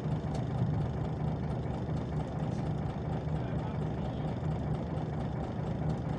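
Scania OmniLink CL94UB city bus's diesel engine running steadily with an even low hum.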